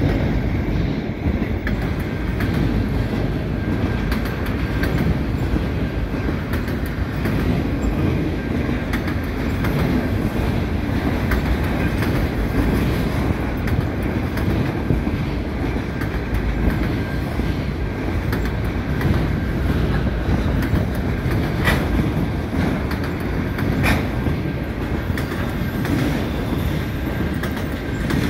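Freight train autorack cars rolling steadily past: a continuous rumble of steel wheels on rail with rhythmic clicking over the rail joints, and a couple of sharper clacks about three-quarters of the way in.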